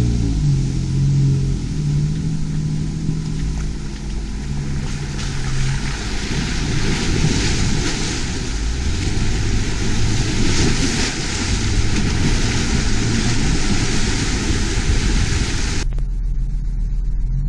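Off-road vehicle driving: the engine drones under a rising hiss of tyre and wind noise. Near the end the hiss cuts off abruptly, leaving a low rumble.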